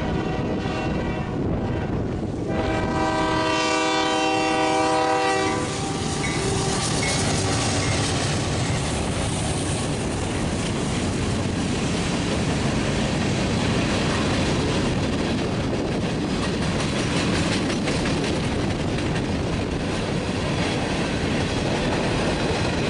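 Horn of a freight train's lead locomotive, a GE AC4400CW, sounding at a grade crossing: a chord that fades out about two seconds in, then a long blast that stops about six seconds in. Then the train rolls past, its GE diesel locomotives followed by a steady rumble and wheel clatter from a string of covered hopper cars.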